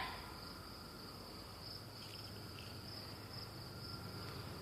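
Faint, steady chorus of insects: a continuous high trill with a slight pulsing, the cicadas having quieted down.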